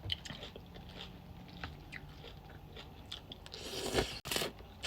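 Close-miked eating: a person chewing shrimp pho, with small wet mouth clicks and a louder noisy burst about four seconds in.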